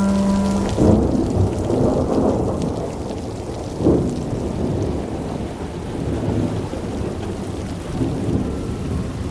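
Heavy rain with a low rumble of thunder, swelling once about four seconds in.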